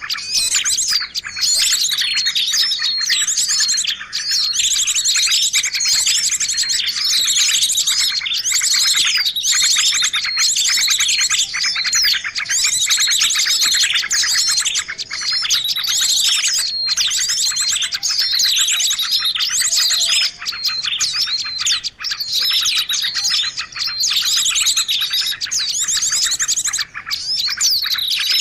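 A dense, noisy chorus of many small songbirds chirping and trilling at once, with no let-up. It is a bird-lure call recording, the agitated chatter played to draw small birds in.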